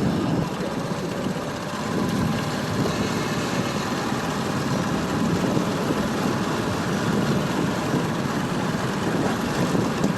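Motorbike engine running steadily, with road noise.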